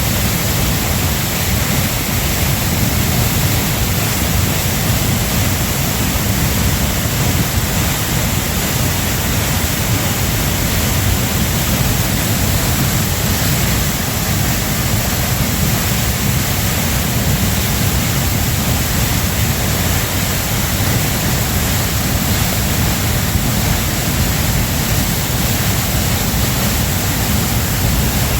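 Waterfall pouring: a loud, steady rush of falling water with a deep low rumble, unchanging throughout.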